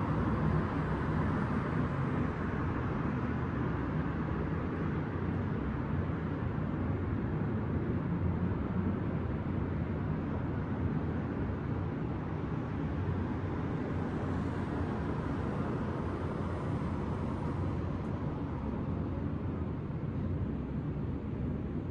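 Steady hum of distant city traffic: a continuous low rumble with a light hiss above it, a little louder in the first couple of seconds, with no single vehicle or event standing out.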